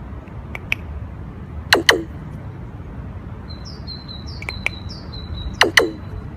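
Caged pet birds calling: two pairs of loud, sharp calls that drop in pitch, about four seconds apart, with softer short chirps in between.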